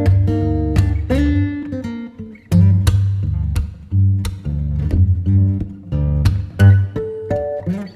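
Background music: plucked acoustic guitar playing a picked melody over a low bass line.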